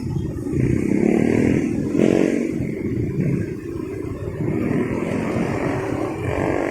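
Motorcycle engine running under way, with a dense low rumble of traffic and road noise; the engine pitch rises briefly about two seconds in as it accelerates.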